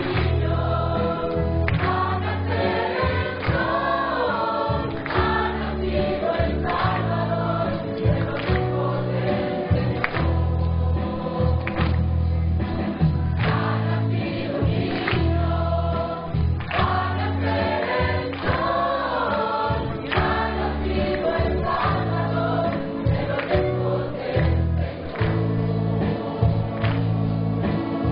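A choir singing with instrumental accompaniment, over a steady low bass line and regular percussive strokes.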